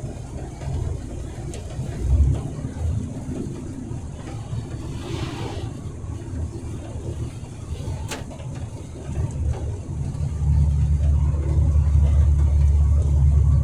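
Truck engine running on the road, a steady low drone that grows clearly louder about ten seconds in, with one sharp click a little past halfway.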